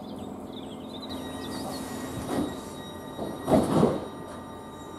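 Electric multiple-unit train standing at a station platform, its equipment giving a steady hum. There is a short burst of noise about two seconds in and a louder one, lasting about half a second, a little after three and a half seconds.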